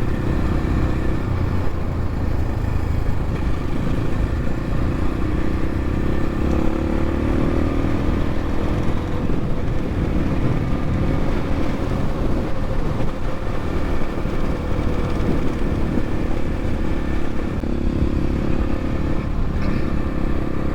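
Dirt bike engine running steadily while riding, with a continuous rush of wind noise underneath; the engine pitch drifts gently up and back down in the middle.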